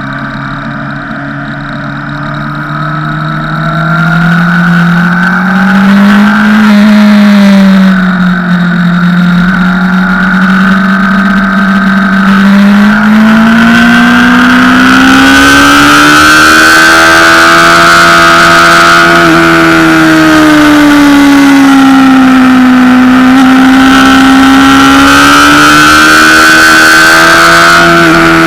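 Honda CBR600RR inline-four engine heard onboard at track speed, its note getting louder about four seconds in, then climbing and falling in long sweeps as the bike accelerates and slows through corners.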